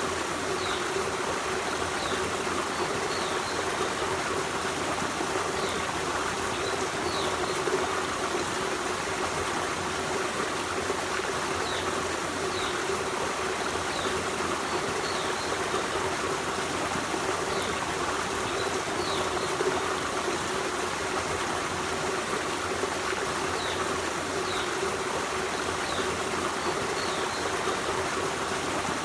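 Forest stream running steadily, with faint short high chirps every second or two.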